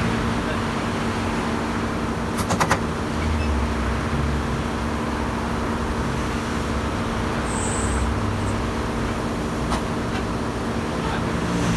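A motor vehicle engine idling steadily. A quick run of about four sharp clicks comes about two and a half seconds in, and a single click near ten seconds.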